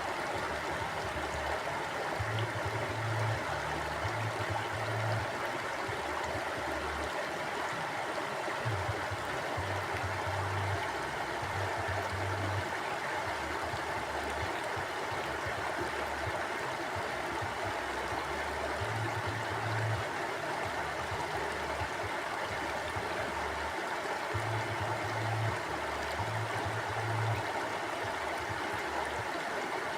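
Mountain stream flowing, a steady, even rushing and gurgling of water over rocks, with a low rumble that swells and fades every few seconds.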